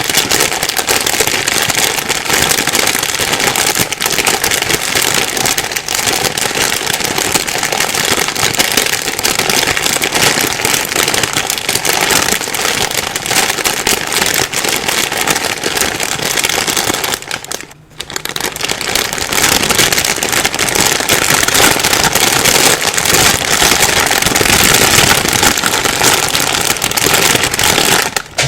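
A plastic bag being crumpled and rustled by hand: a dense, continuous crackling that stops for a moment about two-thirds of the way through and then resumes.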